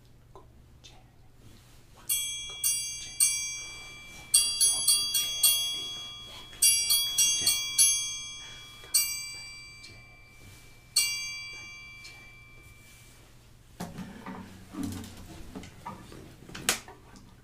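High, bell-like notes struck one at a time on a small metal percussion instrument, about fifteen strikes in short runs, each ringing and fading away. Near the end come a few soft knocks and a sharp click.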